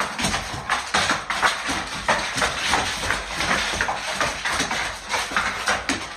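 Animals scuffling: a fast, irregular run of knocks, thuds and scrapes.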